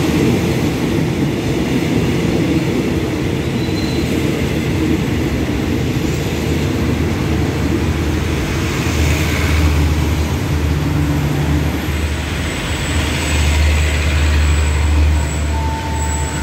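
Passenger coaches of a diesel-hauled express train rolling past the platform, wheels on the rails making a steady rumble as the train runs in to stop. A deep steady hum joins about halfway through.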